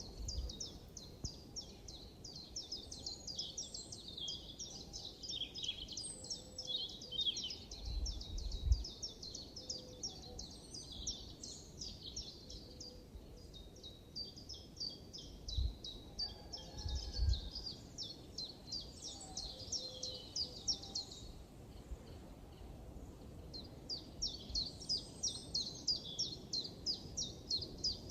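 Birds chirping: rapid, high chirps repeated many times a second, breaking off for a few seconds near the end before resuming. A few low thumps sound under them twice.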